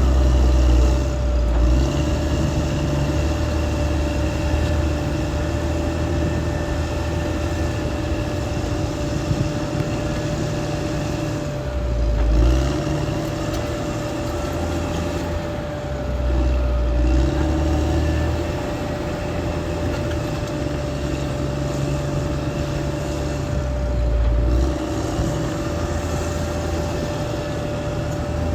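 Caterpillar D6R XL bulldozer's diesel engine running under working load. Its low note shifts several times as the load changes, over a steady whine.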